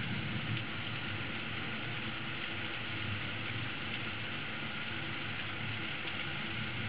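Heavy storm rain pouring down steadily: a dense, even hiss with no breaks.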